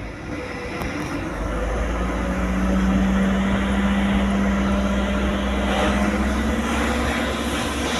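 Heavy truck engine running, growing louder over the first couple of seconds and then holding a steady hum.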